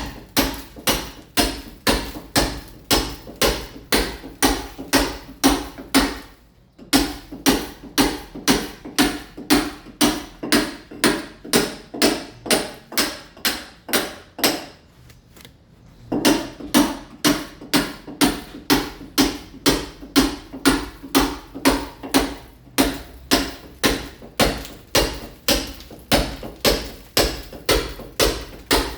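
Mason's club hammer striking steadily into a masonry wall, chipping and roughening the surface to key it for ceramic tile, about two to three blows a second. The blows stop briefly about six and a half seconds in and go softer for a couple of seconds in the middle.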